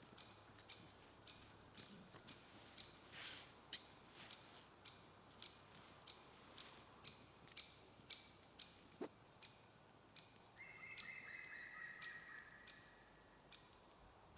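A bird calling faintly, repeating a short high note about twice a second, with a longer, lower wavering call joining in around eleven seconds in.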